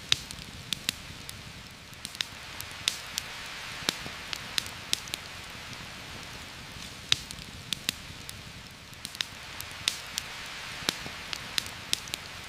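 Steady heavy rain falling, with sharp, irregular crackles and pops from a campfire scattered throughout.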